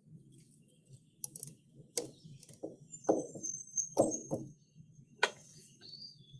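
Cartoon sound effects from an animated short about birds on a telephone wire: a run of sharp snaps and quick sounds falling in pitch, with high squeaky bird chirps, over a low steady hum.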